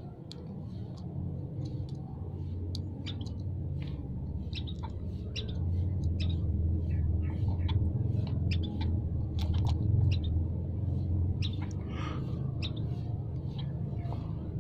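Small songbirds giving many short, quick chirps and squeaky calls, scattered irregularly and busier in the middle, over a steady low hum.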